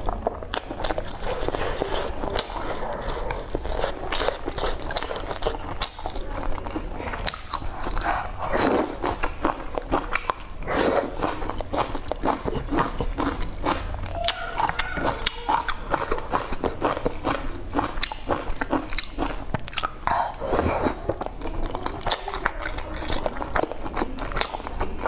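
Close-miked eating: chewing and biting of soft hotpot food such as tofu and greens, with many short clicks throughout.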